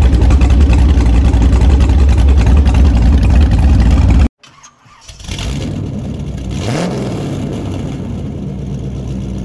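LS-swapped 5.3 V8 engine running loud with a deep rumble. It cuts off abruptly about four seconds in, and after a short gap it is heard again, rising briefly in pitch near seven seconds, then running steadily.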